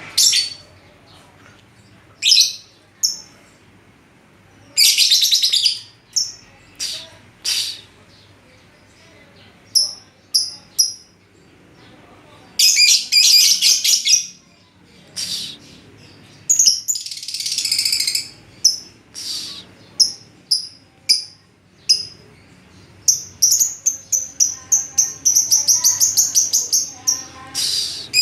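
Lovebird calling in short, shrill bursts of rapid chirps, with a long unbroken run of fast chirps near the end.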